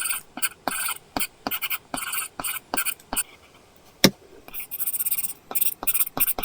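Apple Pencil tip drawing on an iPad's paper-texture screen film: quick, scratchy pen strokes mixed with light taps. The strokes pause a little after three seconds, a sharper tap comes near four seconds, and then the scratching resumes.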